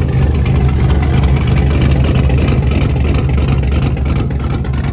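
Loud muscle-car engine running with a deep, steady rumble.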